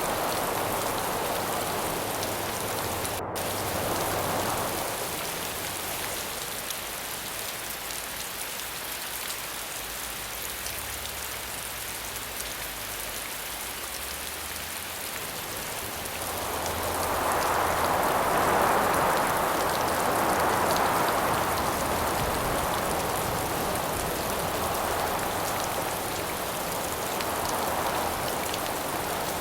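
Steady rain falling, with gusts of howling wind that swell and fade. The wind is strongest at the start and again about two-thirds of the way through.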